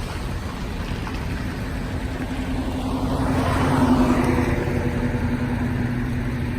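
GMC 5500 bucket truck running with the PTO engaged, its engine driving the hydraulic pump while the boom retracts. A steady hum grows louder about three to four seconds in, then eases back.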